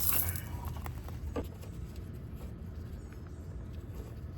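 Small handling noises from work on the fan-belt pulley: a short scrape at the start and a single sharp click about a second and a half in, over a steady low hum.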